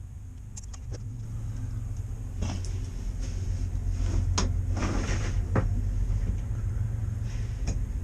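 Knocks, clicks and scraping as a PVC pipe is worked into a silicone-coated hole, over a steady low rumble.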